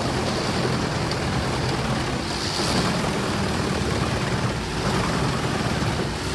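Wood chipper running steadily: a diesel engine hum under the broad noise of wood being chipped.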